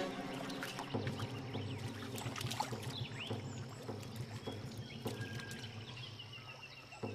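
Water splashing and sloshing in irregular bursts as two male platypuses thrash and fight in the river, over a steady low drone.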